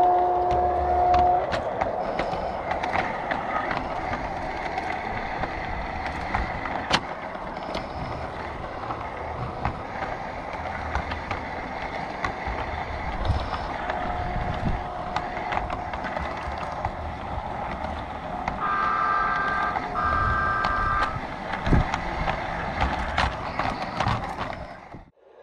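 G scale model train running on garden track: a steady rolling of wheels on rails with scattered clicks, and two short horn toots near the end.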